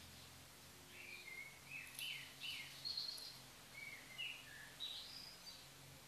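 A songbird singing: a string of short chirped and whistled notes that starts about a second in and stops shortly before the end.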